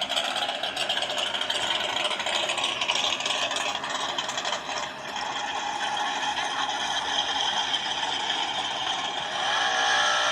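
A car engine running with a steady rattling clatter. Near the end the sound changes and steady pitched tones come in.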